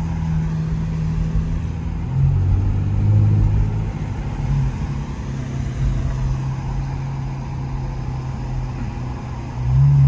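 Muffler-deleted Infiniti Q50's engine and exhaust running as the car is driven: a steady low note that drops about two seconds in, climbs back a few seconds later, and gets louder near the end.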